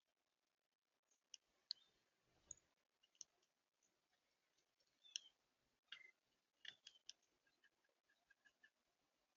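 Faint short chip notes and calls of small songbirds, with scattered light clicks, over near silence. About five seconds in there is one quick falling note, and near the end a run of about six short chips.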